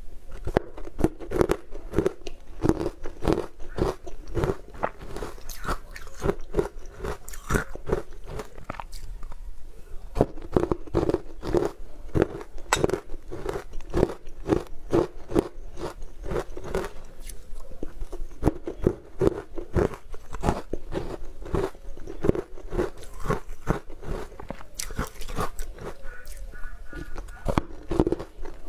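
A person chewing and biting crunchy sweets close to a lapel microphone: a continuous run of crisp crunches. A short metallic ringing, like a spoon touching a steel bowl, comes a couple of seconds before the end.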